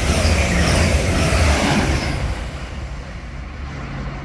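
Class 180 diesel multiple unit passing through the station: a loud rush of wheels and air over a low engine drone, fading away after about two seconds.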